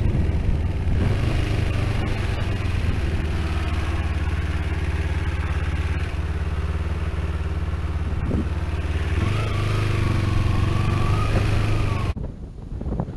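Motorcycle engine running steadily while riding, with a rushing noise over it. The engine note steps up about nine seconds in, and the sound cuts off suddenly near the end.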